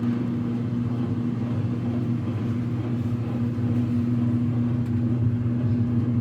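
Whirlpool clothes dryer running: a steady low hum with a rumble from the motor and turning drum.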